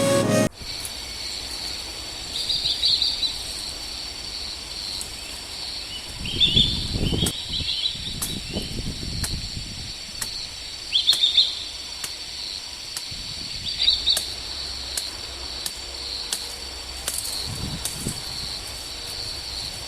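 Forest ambience: small birds chirping in short bursts every few seconds over a steady high insect hum, with a few low rumbling swells about six to nine seconds in and again near the end.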